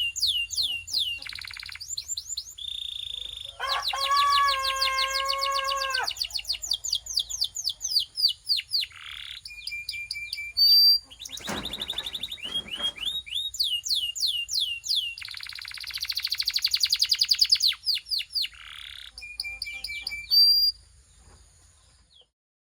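Belgian canary singing: fast trills of repeated falling whistled notes strung into changing phrases, with a lower held phrase a few seconds in and a brief loud burst about halfway through. The song stops shortly before the end.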